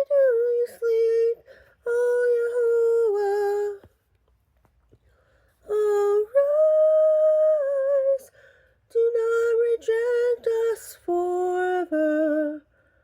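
A solo mezzo-soprano sings unaccompanied, holding long notes and sliding between them in a slow chant-like melody. There is a pause of about two seconds just before the middle.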